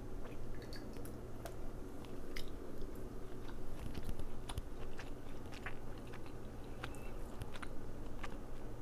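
A person chewing crab meat close to the microphone, with irregular wet mouth clicks and smacks.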